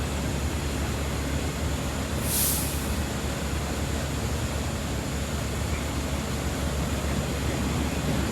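Diesel engines of a work train idling with a steady low rumble, and a short hiss of released air about two seconds in.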